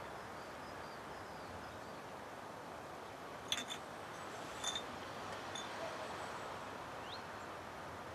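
Quiet outdoor evening ambience, a faint steady hiss, broken by a few short high bird chirps about three and a half and four and a half seconds in and a brief rising whistle near the end.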